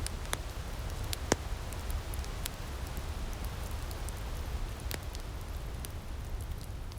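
Outdoor firepit crackling: scattered sharp pops, one louder snap about a second in, over a steady hiss and low rumble.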